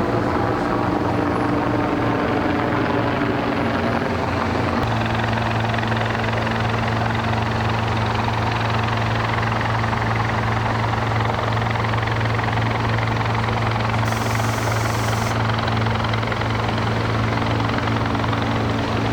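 Helicopter running steadily, a continuous engine-and-rotor sound whose steady hum shifts in pitch about five seconds in.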